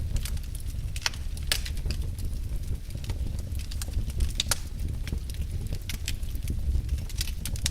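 Wood fire burning in a fireplace: irregular sharp crackles and pops, a few louder snaps among them, over a low steady rumble of the flames.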